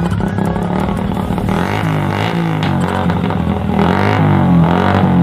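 Yamaha Vixion 150 cc single-cylinder motorcycle engine running with its exhaust pipe filled with water, its pitch rising and falling over and over as it is revved.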